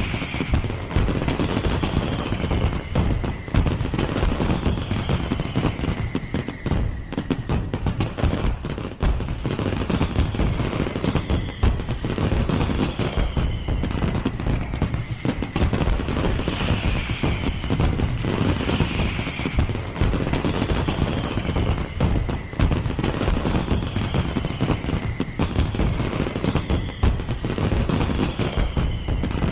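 Fireworks display going off in rapid, continuous volleys of bangs and crackles.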